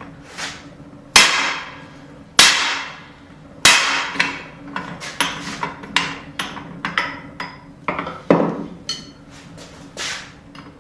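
Hammer blows driving a punch through a hot forged hammerhead to open the eye, each strike ringing. Three heavy blows about a second apart, then a quicker run of lighter strikes.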